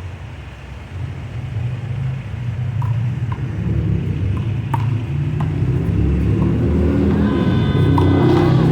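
Low motor-vehicle rumble that swells steadily louder and is loudest near the end, with a few sharp slaps of a handball against the wall and hands during a rally.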